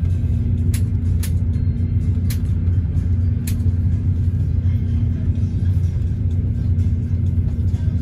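Steady low rumble of a bus on the move, heard inside the passenger cabin: engine and road noise. A few sharp rattles or clicks come in the first half.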